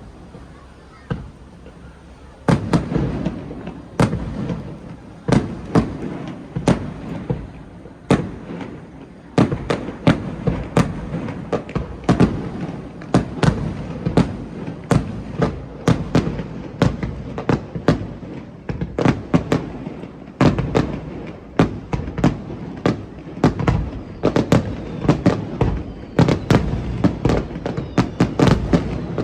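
Fireworks display going off in a rapid barrage of bangs and crackles, a few at first and then dense and continuous from about two and a half seconds in.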